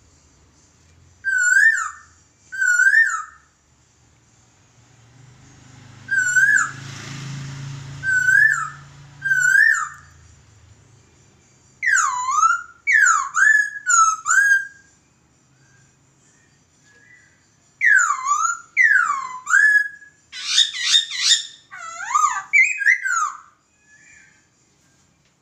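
Poksay (laughingthrush) singing loud, clear whistled notes in short phrases with pauses between. Rising-and-falling single whistles come first, then quick downward-swooping notes, and near the end a fast jumbled run of notes.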